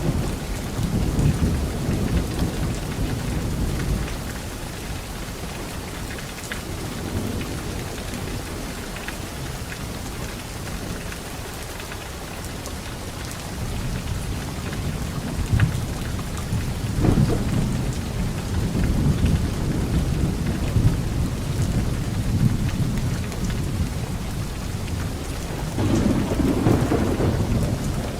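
Steady heavy rain with thunder rumbling in slow swells: a roll in the first few seconds, a longer, stronger one building from about halfway through, and another near the end.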